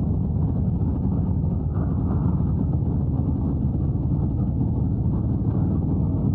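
Harley-Davidson Road Glide's V-twin engine running steadily while riding at road speed.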